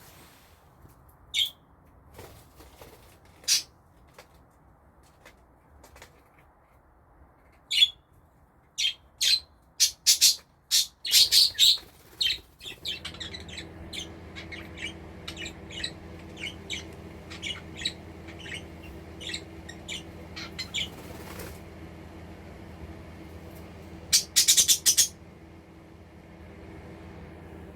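Budgerigars chirping in short, sharp calls: a few scattered at first, then quick clusters in the middle and again near the end. A steady low hum comes in partway through and carries on under the chirps.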